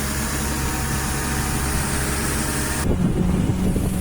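Street traffic: a motor vehicle running close by, a low engine hum under a steady hiss of road noise, the hiss dropping away suddenly about three seconds in.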